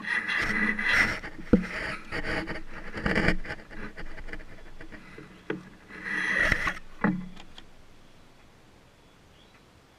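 A funnel and fill hose being pulled out and handled after filling a car's front differential with gear oil: a run of rustling and scraping with several sharp knocks, dying away about seven and a half seconds in.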